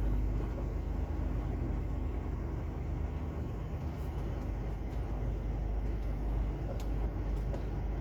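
Truck's diesel engine running steadily with a low drone, with a few faint ticks near the end.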